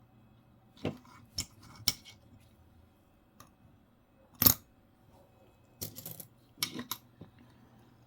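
Small metal coins clicking and clinking as Roosevelt dimes are picked up and set down, with a few sharp taps in small groups and the loudest one about halfway through.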